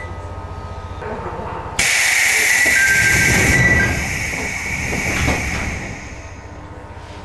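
Compressed air hissing aboard a Chichibu Railway 5000 series electric train, starting suddenly about two seconds in and fading away over the next few seconds, with a few dull thuds: the train's pneumatic equipment venting air at the station.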